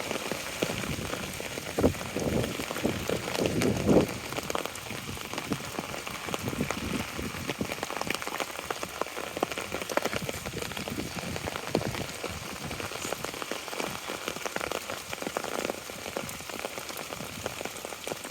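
Steady rain, with dense close drops pattering on an umbrella held overhead. It gets a little louder for a moment about two seconds in and again around four seconds in.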